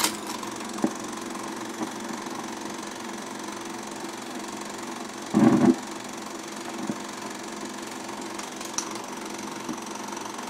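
Bell & Howell 1592C 16mm sound projector running: a steady mechanical hum from its motor and film transport. A short, louder burst comes about five and a half seconds in.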